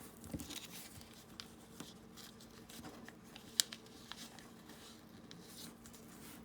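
Paper being folded and handled: faint rustling and crinkling with scattered light taps, and one sharp click about three and a half seconds in.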